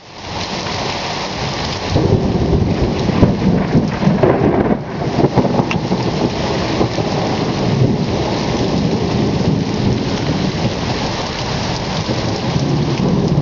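Heavy rain pouring down in a thunderstorm, with thunder rumbling low under the hiss of the rain; the sound swells louder about two seconds in.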